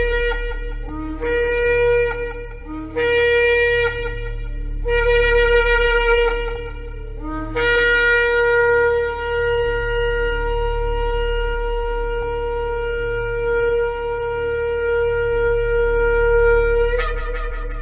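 Shofar (ram's horn) blown in a series of four short blasts, then one long held blast that leaps up in pitch at its close. A low steady drone runs underneath.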